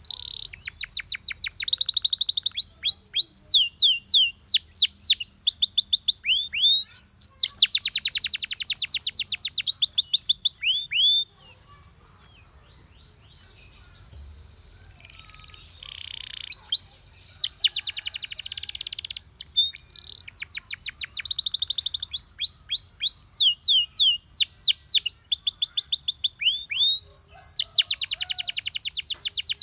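Canary singing: phrases of fast trills and quick sweeping notes, changing from one phrase to the next. The song stops about eleven seconds in, comes back softly a few seconds later and then runs on at full strength.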